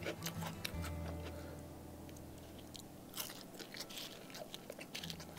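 Close-up chewing of a mouthful that includes a bitten kerupuk cracker, with scattered short crisp crunches and mouth clicks.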